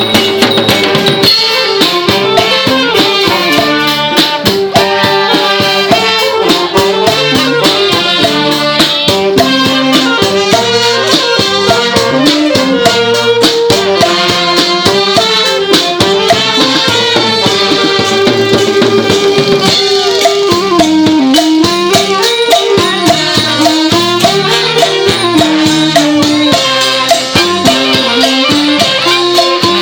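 Thai trae wong band playing continuously: a wavering, bending pi melody over busy drums and cymbals.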